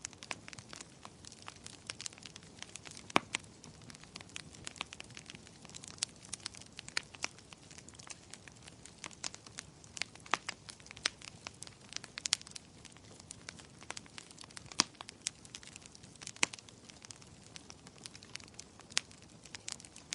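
Wood fire crackling in a fireplace: irregular sharp pops and snaps over a soft hiss of burning, with louder pops about three seconds in and again about fifteen seconds in.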